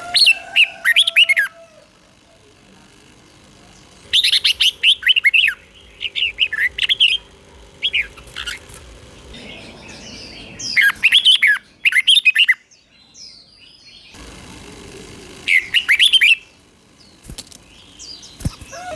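Red-whiskered bulbul singing: short, rapid phrases of bubbling whistled notes, given about six times with pauses of a second or two between them.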